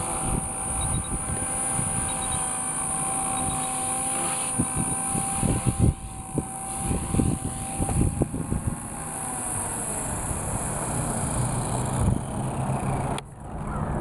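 Micro RC helicopter (Walkera 4F200 with a Turboace 352 brushless motor and three-blade main rotor) flying, its motor and rotor giving a steady high whine that falls in pitch about nine seconds in. Irregular low thumps run under it.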